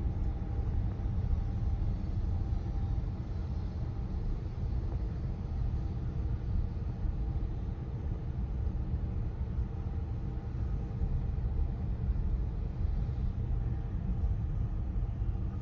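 Steady low rumble of a car driving slowly, engine and tyre noise heard inside the cabin.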